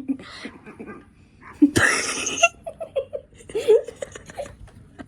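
Young people laughing and calling out, with one loud outburst about two seconds in.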